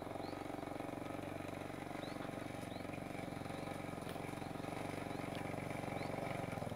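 A step-through motorcycle's small engine running steadily at low speed, without revving, as the bike creeps down a muddy rutted track. Faint short chirps of birds sound now and then above it.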